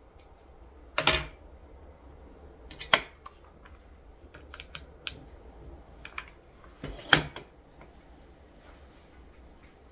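Scattered small clicks and taps of craft materials being handled on a table, with three louder knocks about one, three and seven seconds in.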